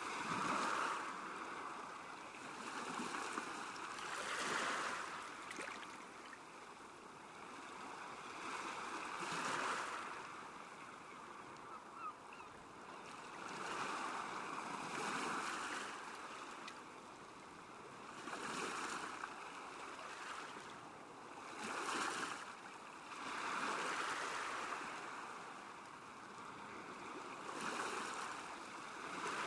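Small waves lapping at a lakeshore, swelling and fading every few seconds.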